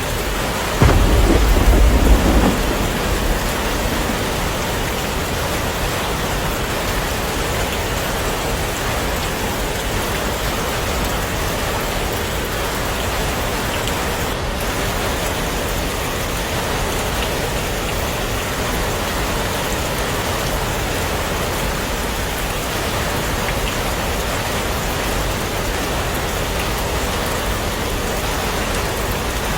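Heavy rain falling steadily, with a sudden low rumble of thunder about a second in that fades away over the next two seconds.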